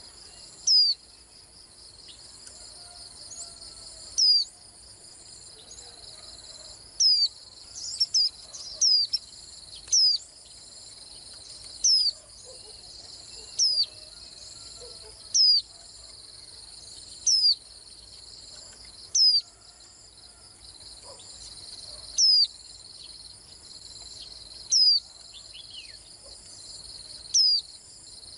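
A white-eye giving short, high, downward-slurred call notes, one every two seconds or so, with a quick run of several notes about eight seconds in. A steady high insect trill, like crickets, runs underneath.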